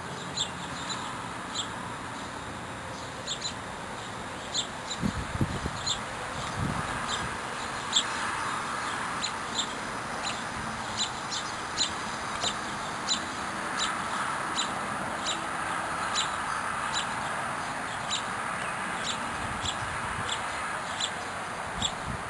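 Small bird at a feeder chirping steadily, repeating one short high chirp about every two-thirds of a second, over a background of other bird calls. A few low thumps come about five to seven seconds in.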